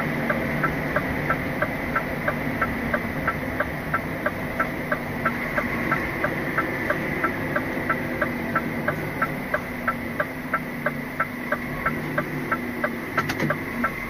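Lorry's turn indicator ticking steadily, about three clicks a second, over the steady drone of the engine heard inside the cab. A short flurry of extra clicks comes near the end.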